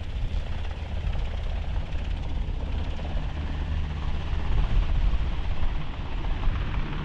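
CH-53 heavy-lift helicopter running, a steady rotor and turbine noise with most of its weight in the low end.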